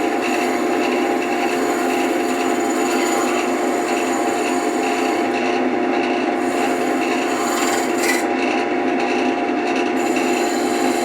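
Wood lathe running steadily while a tool rubs against the spinning wooden candle-holder blank: a constant motor hum under a dry scraping rasp.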